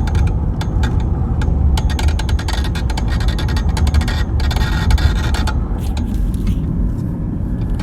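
Rapid metallic rattling from the centre console of a 2016 BMW 320d as it drives, over the low drone of the moving car, thinning out near the end. The cause is a broken handbrake cable bracket that lets the cable strike the propeller shaft.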